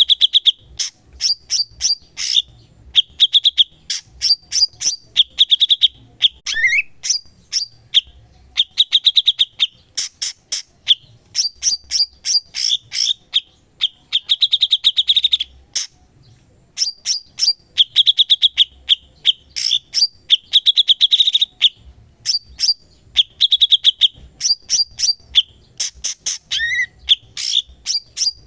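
Cucak cungkok singing vigorously and without let-up: quick runs of sharp, ticking chips alternate with short buzzy trills, and now and then a brief rising note. The song breaks off once for a moment about halfway through.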